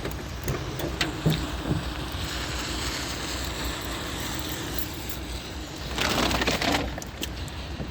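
Hand work on a car's side light unit: sharp plastic clicks and creaks as the lamp housing is prised open, with a louder scraping rustle about six seconds in.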